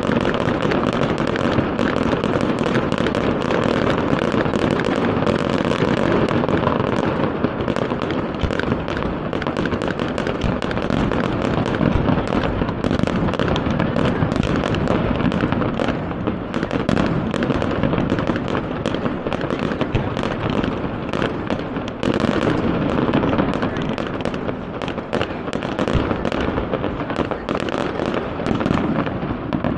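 Fireworks display: a dense, continuous run of rapid bangs and crackling, easing off at the very end.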